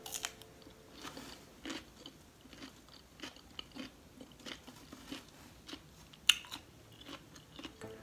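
Raw cucumber dipped in rujak sauce being bitten and chewed: a string of wet crunches, the loudest about six seconds in.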